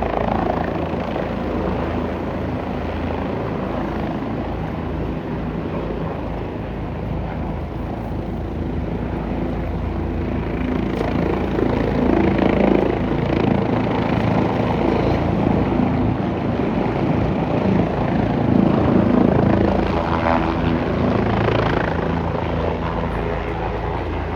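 Helicopter rotor and engine running continuously. The sound swells louder about halfway through and again about three-quarters of the way in.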